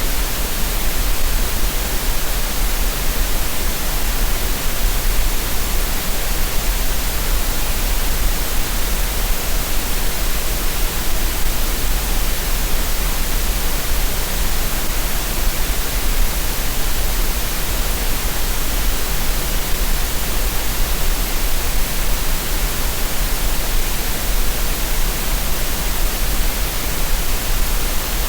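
Steady, unchanging green noise: an even hiss across the whole range with a low hum underneath, with no rhythm or events.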